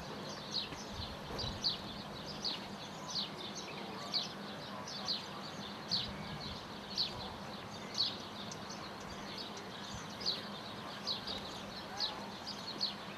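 Birds chirping repeatedly: short high downward-sliding chirps, about one or two a second, over a faint steady low hum.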